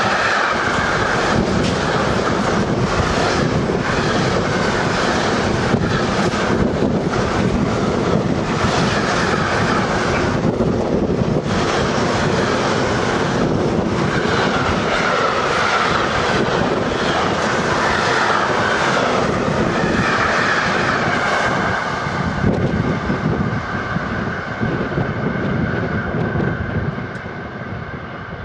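Train passing close by: a long, steady rush of wheels on rail with repeated clacks over the rail joints, fading over the last few seconds.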